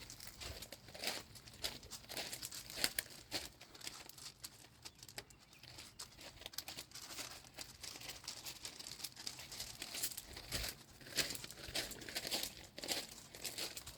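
Gusty wind on the microphone: a low rumble under dense, irregular crackling and rustling.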